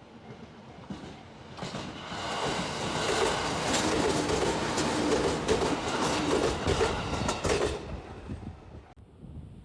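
Electric commuter train passing: the noise builds about two seconds in, with rapid clacking of the wheels over rail joints, then fades away near the end.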